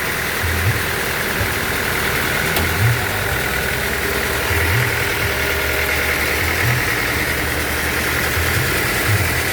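Band sawmill running between cuts, not yet in the wood: a steady engine-like hum with low pulses that come and go every second or two, and a high tone over it.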